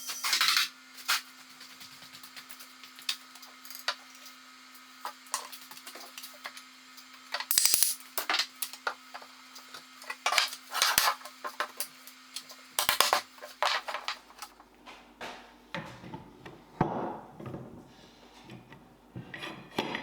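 Scattered knocks and clatter of wooden pieces and hand tools being handled, with a steady electrical hum underneath that stops about two-thirds of the way through.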